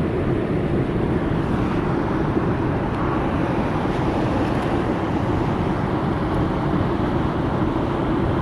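A steady, low rushing noise, even and unbroken.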